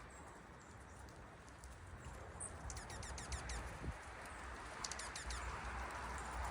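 Wild songbirds calling: two quick runs of rapid, repeated high notes, one about three seconds in and one about five seconds in, with a few faint high chips, over a steady background hiss.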